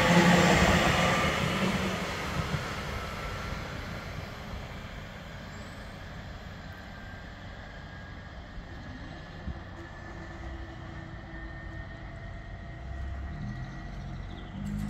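Northern Class 331 electric multiple unit moving away, its sound fading over the first few seconds to a low rumble, with a faint rising whine from its electric traction.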